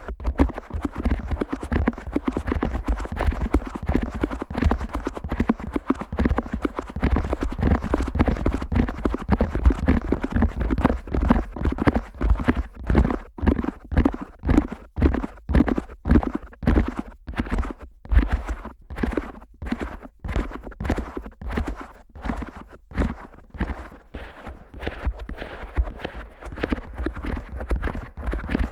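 Fingers flicking firmly and rapidly at the silicone ears of a Neumann KU100 dummy-head microphone, heard from inside the ears as a fast run of close taps with a deep low end. The taps are more spaced out through the middle.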